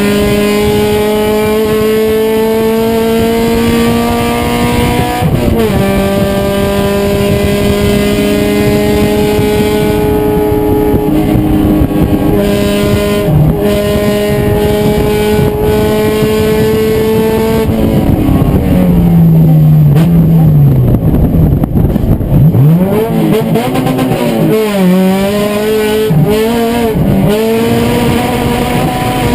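Race car engine under hard acceleration, its pitch climbing, dropping once about five seconds in as it shifts up, then climbing again. After about eighteen seconds it falls and wavers with several quick up-and-down jumps, like braking with downshifts and throttle blips, before it picks up again near the end.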